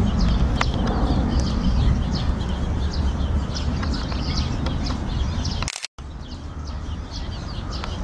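Birds chirping in many short, quick high notes over a steady low background rumble; the sound cuts out briefly about three quarters of the way through.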